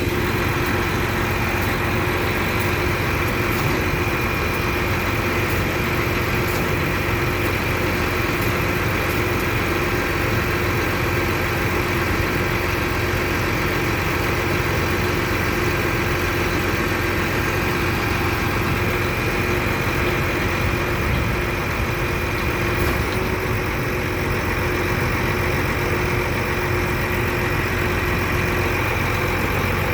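A vehicle engine idling steadily: a continuous low rumble with a faint steady whine over it.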